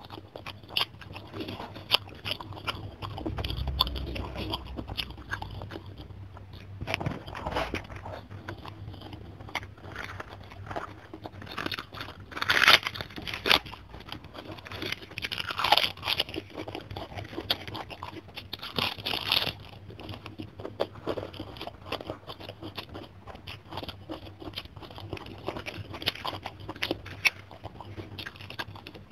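A person chewing rice and fish with small wet mouth clicks. Loud, crisp crunches come about halfway through as she bites and chews a raw napa cabbage leaf.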